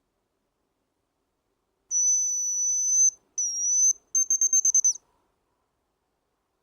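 High, thin whistled tone in three phrases: a steady note about a second long, a shorter note that dips and rises again, then a rapid trill of about eight pulses that ends with a quick downward drop.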